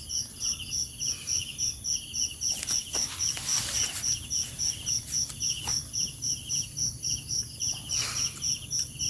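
Night insects, crickets, chirping in an even rhythm of about three or four high pulses a second, with a second, lower insect trilling in short runs.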